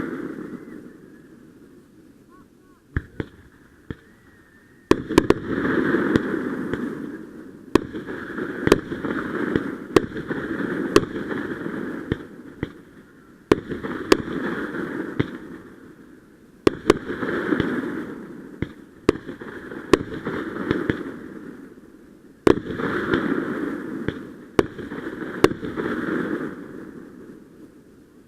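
Aerial fireworks exploding in a show: a string of sharp bangs, several coming in quick clusters, each cluster trailing off in a rumbling echo over a few seconds.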